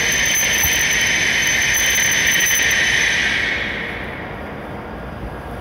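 E7 series Shinkansen train braking to a stop alongside the platform: a loud rushing, whining brake and running noise with a thin high tone, which fades away about three and a half seconds in as the train halts, leaving a low steady hum.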